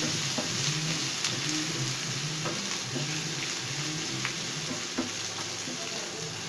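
Onions and ginger-garlic paste sizzling in hot ghee in a non-stick frying pan, stirred with a wooden spatula that scrapes and taps against the pan now and then.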